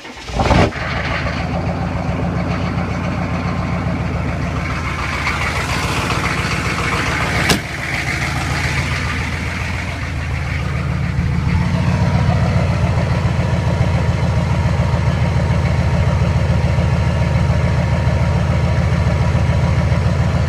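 GM 6.5-litre diesel V8 on a cold start in the snow after glow-plug warm-up, catching within the first second and settling into a steady diesel idle with an even low pulse. A single sharp click comes about halfway through, and the engine gets louder about eleven seconds in.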